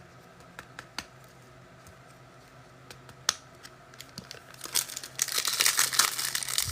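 Trading cards being handled, with scattered light clicks and taps, then from about five seconds in the foil wrapper of a card pack crinkling and tearing as it is ripped open.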